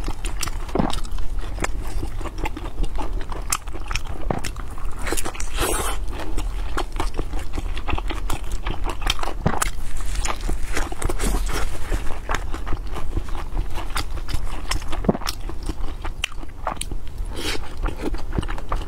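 Close-miked eating of steamed dumplings and egg: biting and chewing, with a dense, irregular run of sharp mouth clicks and smacks.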